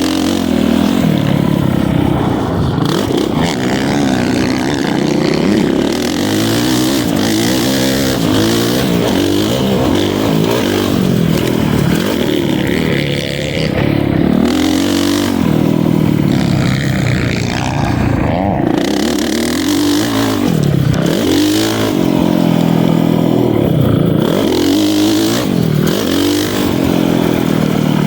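Honda CRF450R motocross bike's 450 cc single-cylinder four-stroke engine running hard on the track, revving up and dropping back over and over as the throttle is worked through jumps and corners. The pitch rises and falls every couple of seconds, most regularly in the second half.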